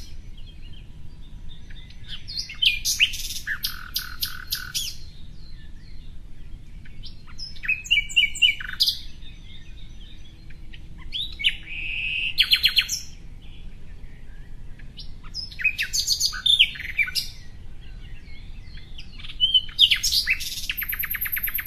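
A songbird singing five complex song phrases, each one and a half to two seconds long and about four seconds apart. The phrases are made of rapid high trills and quick up-and-down notes.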